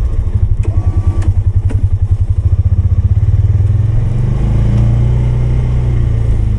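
Polaris 570's single-cylinder engine running steadily, with a fast pulsing throb in the first few seconds. A few sharp knocks and clatters come within the first two seconds.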